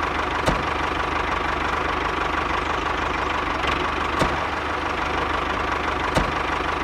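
A mini tractor's small engine running steadily with a fast low chugging, with a few short knocks about half a second in, near the middle and near the end.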